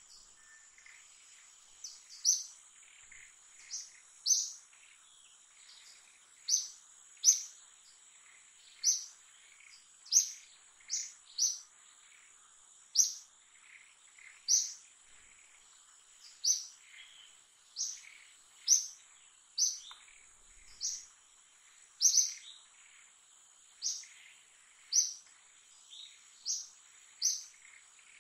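A bird chirping over and over in short, sharp, high notes, roughly one a second at uneven spacing, over a steady high-pitched insect whine.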